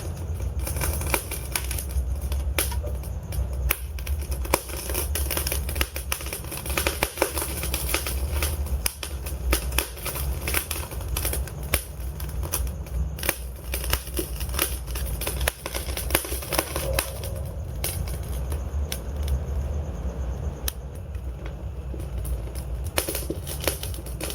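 Wood fire of burning logs crackling, with frequent irregular sharp pops over a steady low rumble of the flames.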